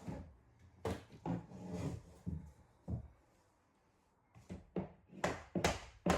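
Floor planks being knocked into place: a series of sharp knocks with some scraping between them, a pause in the middle, then quicker knocks near the end.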